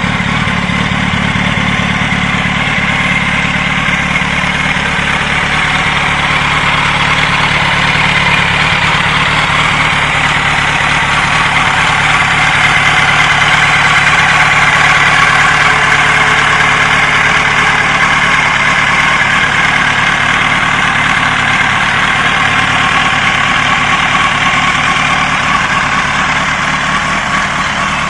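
2004 Yamaha YZF-R1's inline-four engine idling steadily, a little louder around the middle.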